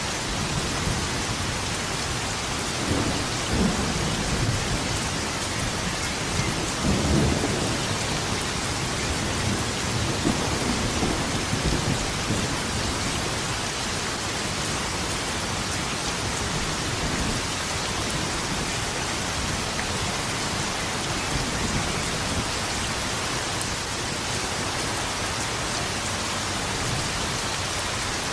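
Steady heavy rain hissing, with rolls of thunder rumbling low in the first half, strongest about seven seconds in, then fading to rain alone.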